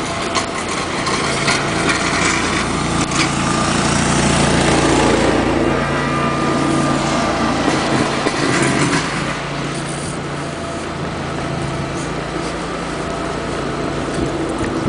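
Small engine of a sidewalk snow-clearing vehicle running steadily. It grows louder to a peak around four to five seconds in, then eases off.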